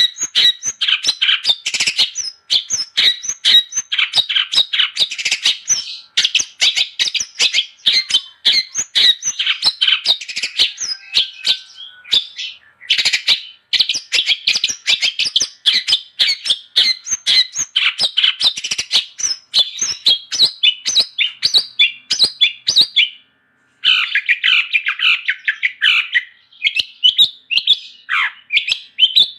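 Long-tailed shrike (cendet) singing non-stop: a rapid, dense stream of short chattering, squeaky and chirping notes, with one brief break about three-quarters of the way through.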